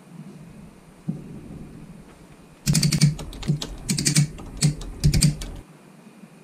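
Hard plastic clicking and clattering in four or five quick bursts about halfway through, as plastic model kit parts and runners are handled.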